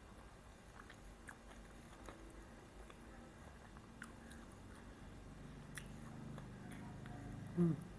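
Close-miked chewing of a minced beef pita wrap, with small wet mouth clicks and a bite into the wrap near the end, which is the loudest sound.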